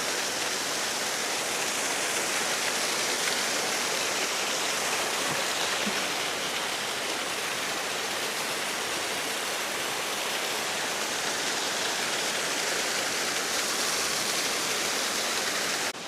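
Waterfall close by: a steady rush of falling, splashing water, which drops away suddenly at the very end.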